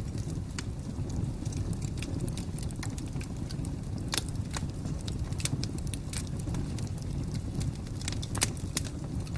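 Wood fire crackling: irregular sharp pops and snaps over a steady low rumble of burning, with the loudest pops about four seconds in and near the end.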